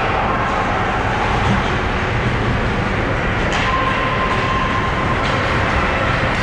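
Ice hockey game sound in an arena: a steady din of rink and crowd noise, with a few sharp knocks, one about three and a half seconds in, and a brief steady tone near the middle.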